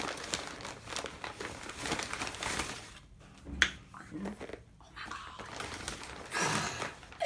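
Takeaway food packaging being handled, with irregular crinkling and rustling of paper wrappers and bags. A quieter stretch about three seconds in holds a single sharp click.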